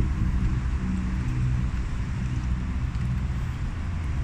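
Toyota Hilux Revo engine idling with a steady low rumble.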